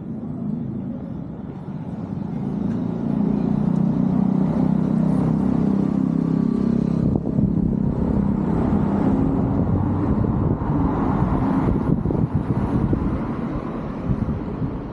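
A car driving past close by: engine hum building over the first few seconds, then tyre and road noise that swells and slowly eases.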